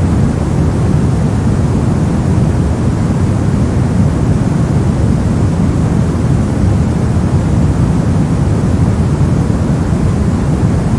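Steady sleep-noise track: an unbroken hiss with no pitch or rhythm, heaviest and deepest in the low end.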